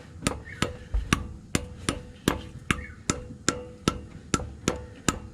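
Light, evenly spaced hammer taps, about two and a half a second, each with a short metallic ring, driving a spigot bearing into the back of a crankshaft by striking around its outer edge.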